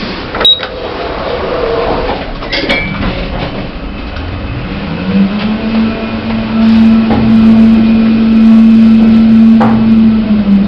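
Lift car travelling between floors: a couple of sharp clicks, then the drive starts with a short rising hum about halfway in that settles into a steady hum and stops near the end as the car arrives.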